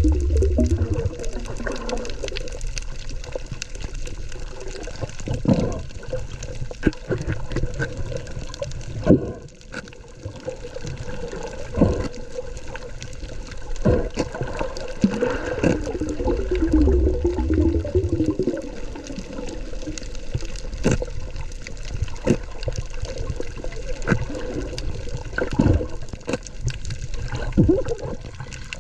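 Underwater sound of parrotfish biting and scraping coral: sharp crunching clicks at irregular intervals over steady water noise. A gurgling sound comes near the start and again about midway.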